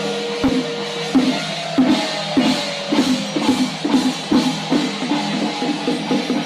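Music carried by drums: drum strokes about twice a second, coming a little faster towards the end, over a steady held tone.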